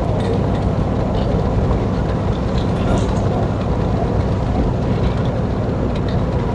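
Steady engine, tyre and wind noise inside the cab of a 2002 Chevrolet Silverado pickup cruising down the road.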